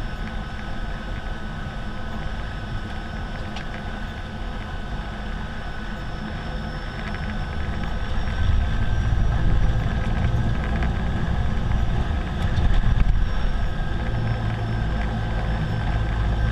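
Air Tractor AT-502's PT6A turboprop engine running, a steady high whine over a deep rumble. The rumble grows louder about halfway through.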